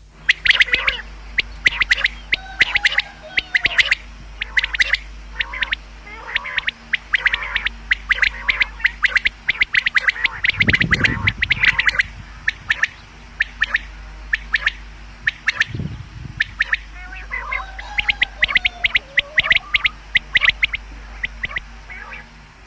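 Common quail calling: runs of short, sharp notes repeated rapidly and continuously, with softer, lower gliding notes in between. A brief low rumble comes in twice, about halfway through and a little after.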